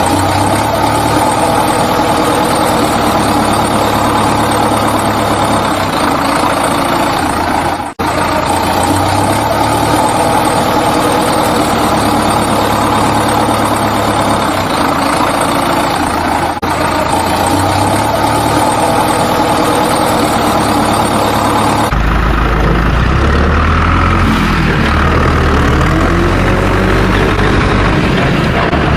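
Heavy vehicle engine running steadily, cut off for an instant about eight and sixteen seconds in; about 22 seconds in it gives way to a lower, rougher engine sound.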